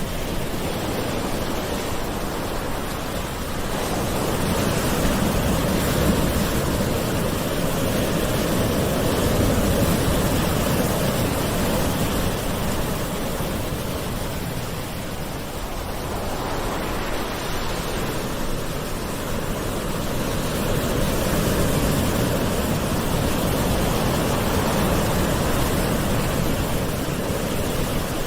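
Gentle ocean waves washing on a shore in a continuous hiss that swells and ebbs slowly, building twice and easing off in between.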